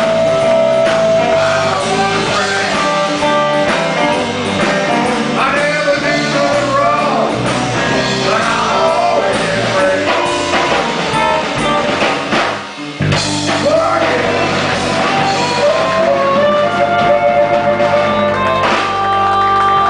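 Blues-rock band playing an instrumental passage, with bending lead lines over bass and drums; the sound drops out briefly about thirteen seconds in before the band comes back in.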